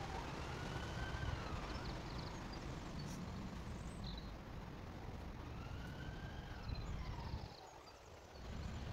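Emergency-vehicle siren wailing, its pitch rising and falling slowly, twice, over a steady low rumble.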